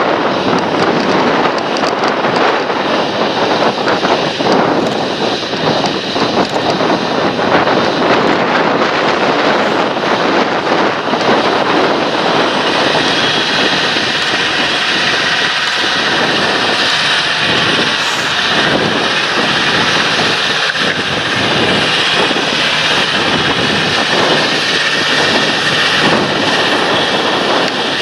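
Large John Deere tractor working a field, its engine running steadily under load; a steady high whine comes in about halfway through.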